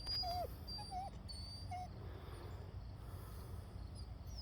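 A puppy whimpering: three short whines in the first two seconds, faint against a low steady background.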